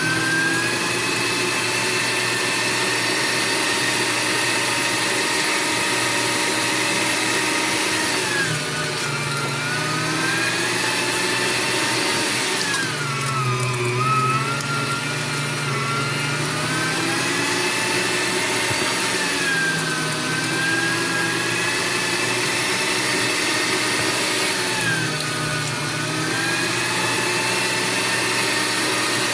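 Electric meat grinder's motor running steadily with a whine that sags in pitch about four times and climbs back, as the motor slows under the load of beef being fed through it.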